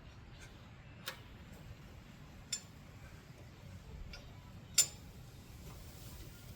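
A few sharp, separate clicks and taps of hand tools and small metal parts being handled, the loudest a little under five seconds in.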